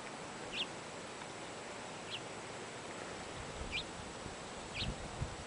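A small bird calling with four short, high chirps about a second or more apart, over a steady background hiss. A few low thumps come near the end.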